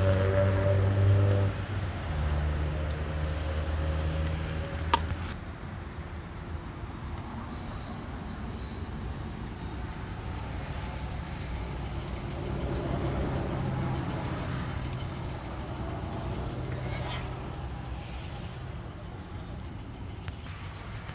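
Car engine sound: a steady pitched hum that shifts lower after about two seconds, then a steady low rumble that swells briefly in the middle. A single sharp click about five seconds in.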